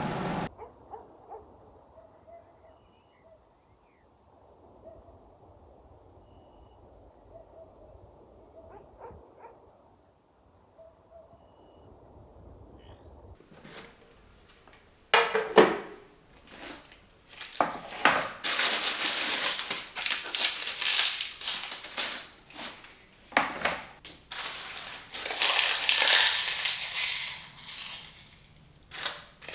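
Dried fig leaves being crushed and crumbled, a crisp crackling rustle in irregular bursts that starts about halfway through after a quiet stretch.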